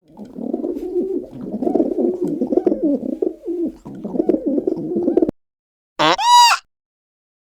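Pigeons cooing: a low, throaty warbling that runs for about five seconds and then cuts off abruptly. Near the end comes one loud, short call that rises and falls in pitch.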